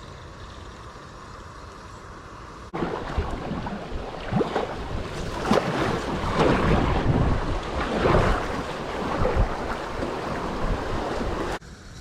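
Creek water splashing and rushing, with wind buffeting the microphone. A louder stretch of irregular splashing starts suddenly about three seconds in and stops suddenly near the end.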